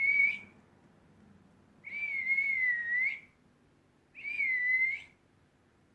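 Three long, steady whistled notes, each holding one pitch with a slight wobble: a short one at the start, a longer one about two seconds in, and a third about four seconds in.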